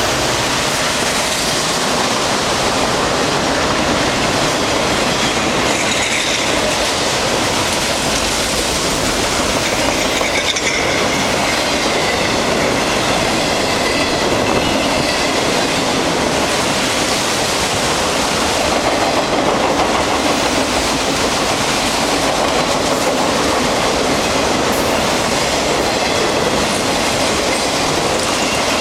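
A long freight train of autorack cars rolling past at speed: a steady, loud rumble and rush of steel wheels on the rails, with faint high wheel squeals coming and going.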